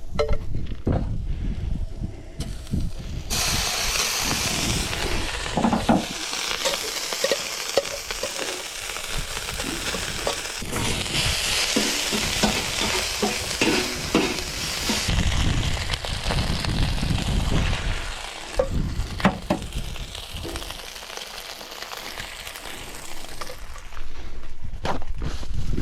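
Fried rice sizzling in a hot pan while being stirred and scraped with a utensil. The sizzle starts suddenly about three seconds in and stays strong until about halfway, then dies down, with scattered knocks and scrapes of the utensil against the pan.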